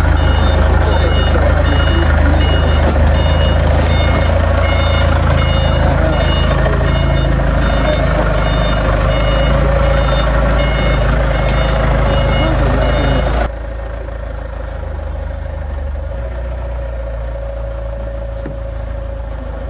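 Heavy vehicle's reversing alarm beeping steadily over a low engine rumble. The beeping cuts off suddenly about thirteen seconds in, leaving the engine rumble and a steady hum.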